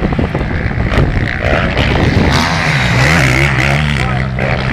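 Motocross motorcycle engines racing hard, their pitch rising and falling as the throttle is worked, with more than one engine heard at once.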